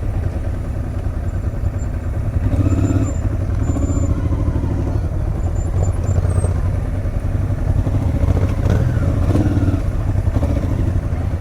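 Motorcycle engine running steadily at low riding speed, a constant low rumble, with brief passing sounds of other traffic.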